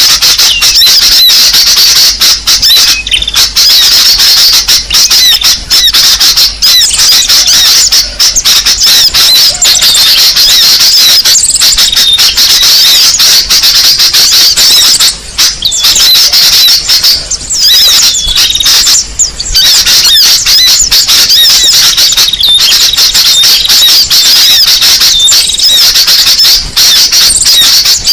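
Small birds chirping and trilling continuously and densely, many high calls overlapping, as a bird-lure call recording meant to draw small songbirds in.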